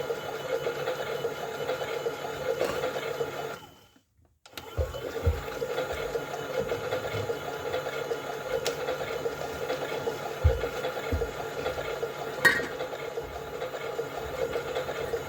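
Toy washing machine running a wash cycle: its small motor whirs steadily with water sloshing in the drum. The sound cuts out for a moment about four seconds in, then resumes with a few low thumps and a single sharp click near the end.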